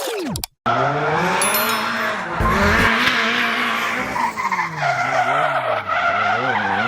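A car drifting: the engine revs up and down repeatedly while the tyres squeal and skid. A short falling tone just before the engine sound begins.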